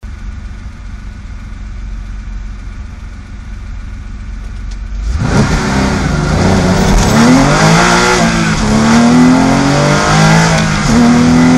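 Race car engine idling steadily, heard from inside the cabin. About five seconds in it launches hard from a standing start, its revs climbing, with two upshifts where the pitch drops back before rising again.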